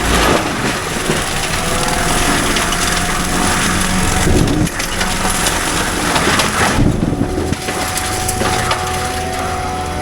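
CAT 310 excavator's diesel engine and hydraulics running steadily while wood cracks, snaps and splinters as brush and branches are crushed.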